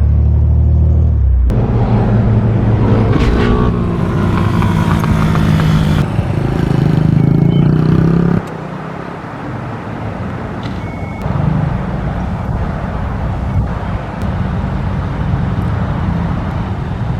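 Off-road vehicle engine running hard under throttle, its pitch climbing over several seconds. The level drops off suddenly about eight seconds in, and a quieter, rougher engine and ground noise carries on after that.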